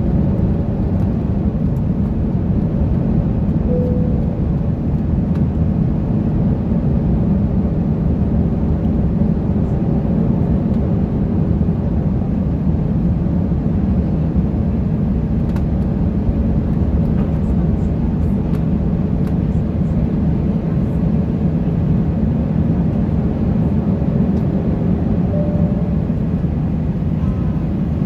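Steady low cabin noise of an Airbus A330-900neo in flight or under power, heard from inside the cabin: the Rolls-Royce Trent 7000 engines and the rush of air along the fuselage, with no change in pitch or level.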